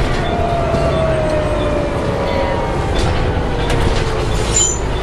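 A Volvo B7TL double-decker bus howling as it runs, heard on board: a single tone falling slowly in pitch over the steady rumble of the running bus. The owner of the recording calls the noise strange and gives no cause for it.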